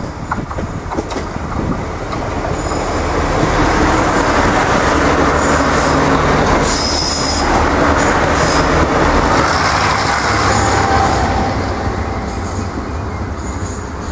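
Irish Rail 29000 class diesel multiple unit passing close by at speed. Its wheels rumble and click on the rails, with short high-pitched wheel squeals as it goes by. The sound builds as it approaches, is loudest for several seconds, then fades as it moves away.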